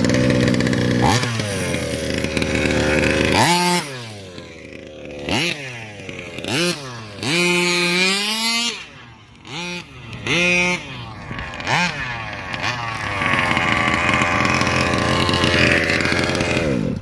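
38cc two-stroke engine with an Olimat tuned pipe on a King Motors Baja 5b RC buggy, revving in a series of sharp throttle blips that rise and fall. Near the end it holds high revs for a few seconds, then drops away.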